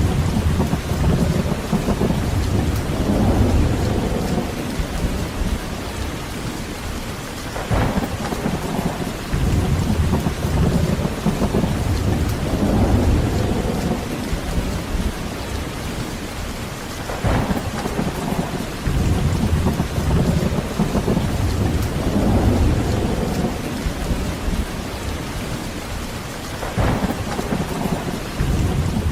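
Heavy rain falling steadily, with thunder rolling in repeatedly: a sharp crack about every ten seconds, followed by a long low rumble that swells and fades.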